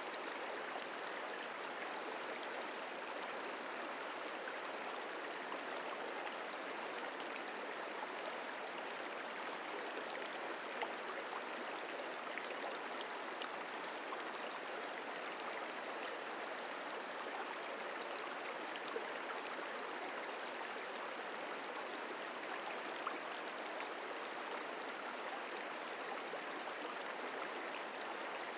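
Merced River flowing: a steady rush of running water, with a few faint clicks.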